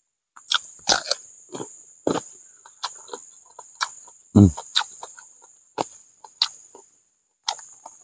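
Close-up chewing of crunchy raw vegetables: a string of sharp crunches at an uneven pace, with one deeper thud about halfway and a steady high whine underneath.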